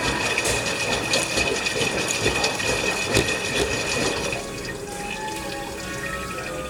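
LG washing machine on its rinse, water sloshing and splashing in the drum with small knocks; it gets quieter about four seconds in.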